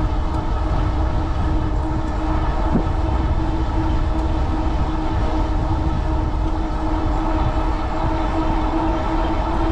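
Strong wind buffeting the microphone during a fast e-bike ride, with a steady whine from the Cyrusher Kommoda's 750 W Bafang rear hub motor running under power.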